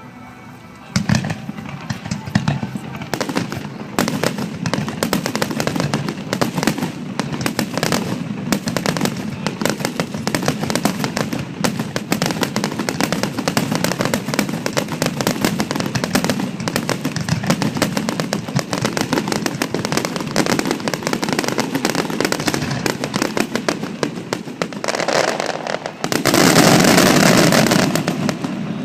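Fireworks finale: a rapid, almost continuous barrage of bangs and crackling shells starting about a second in, swelling into a louder, denser rush near the end.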